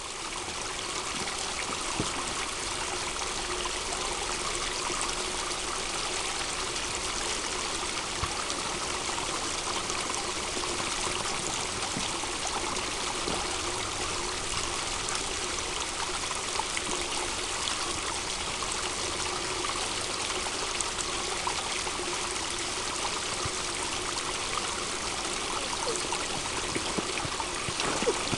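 A stream of water running steadily, an even rush with small trickling splashes, fading in at the start.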